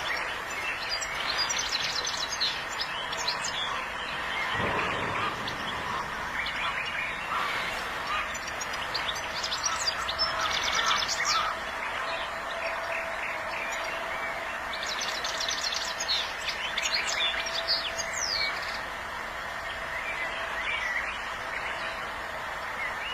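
European goldfinch singing: bouts of several seconds of rapid twittering and tinkling notes, separated by short pauses.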